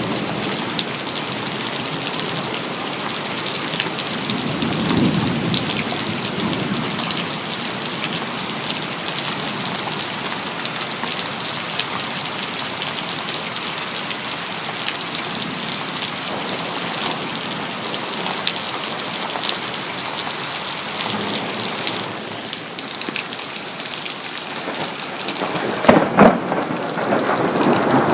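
Steady heavy rain with thunder. A low rumble swells about five seconds in, and near the end a sharp thunderclap cracks and rolls on in louder rumbling.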